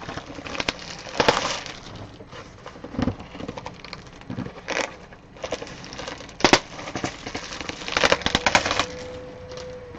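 Trading card pack wrapper being torn open and crinkled, in repeated short crackling bursts, with a faint steady hum near the end.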